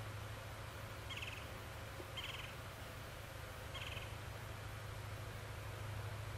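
A small bird gives short, high, buzzy trilled chirps three times, irregularly spaced about a second or more apart, over a steady low hum.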